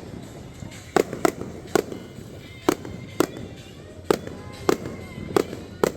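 Fireworks show: about nine sharp bangs of aerial shells bursting at irregular intervals, some in quick pairs, with a steady hiss of the show between them.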